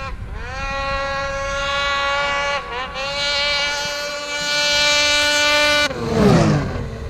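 Ski-Doo 850 E-TEC two-stroke snowmobile with a Speedwerx L2 competition muffler, a light, loud aftermarket exhaust, at high revs. The engine note climbs, holds steady with a brief dip about two and a half seconds in, then peaks in loudness and falls steeply in pitch about six seconds in, as in a drive-by.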